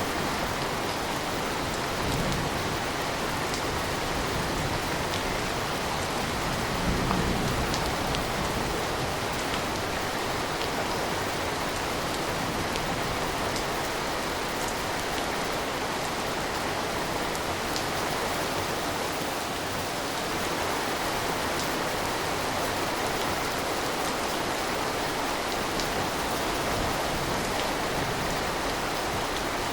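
Steady rain falling, an even, dense hiss, with two brief low rumbles in the first several seconds.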